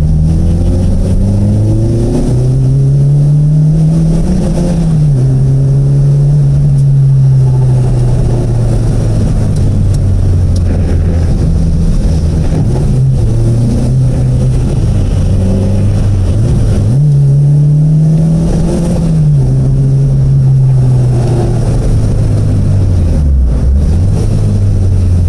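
Car engine heard from inside the cabin on a test drive, with a freshly fitted 1.6 gearbox and limited-slip differential. The engine note climbs in pitch, falls sharply at an upshift about five seconds in, runs fairly steady, then climbs and falls again at a second shift about two-thirds of the way through, with a brief dip near the end.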